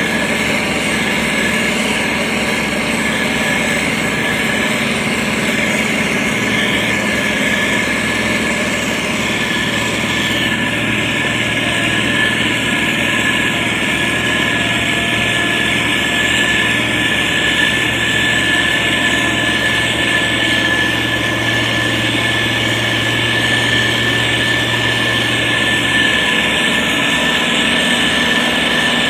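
Heavy diesel engine of a SANY STG190C-8S motor grader running steadily, with a constant high-pitched whine over the engine note.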